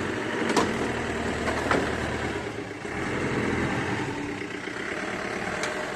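Vehicle engine running steadily, with a few sharp clicks or knocks on top.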